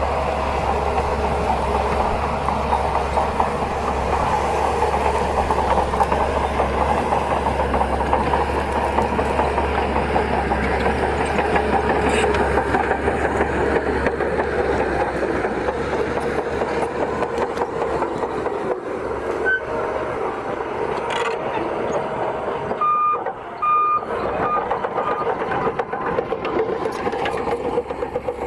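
Shantui bulldozer's diesel engine running steadily as it works. Near the end a reversing alarm beeps a few times.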